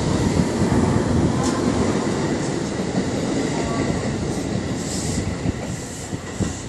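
JR 207 series electric commuter train pulling out of the station and running along the platform, its rolling and wheel-on-rail noise fading slowly as it leaves.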